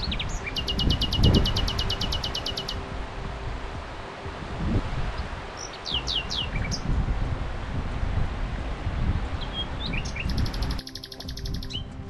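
Songbird singing: a rapid trill of high, evenly repeated notes lasting about two seconds, a few short falling whistles midway, and the trill again near the end, over a steady rush of background noise.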